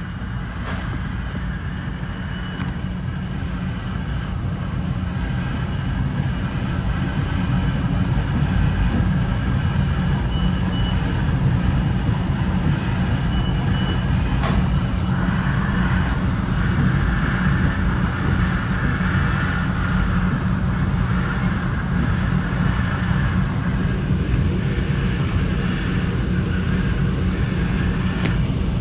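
Metra bilevel commuter train rolling along the main line, heard from inside the leading cab car: a steady low rumble of wheels on rail that grows louder a few seconds in, with a single sharp click about halfway through.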